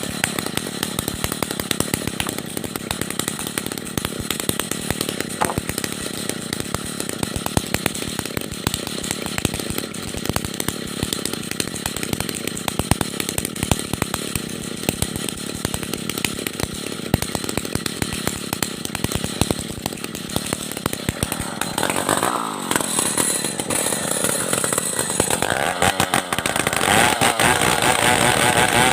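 Stihl 070 two-stroke chainsaw running at high revs while sawing wood. The engine note shifts briefly about three-quarters of the way in and grows louder near the end.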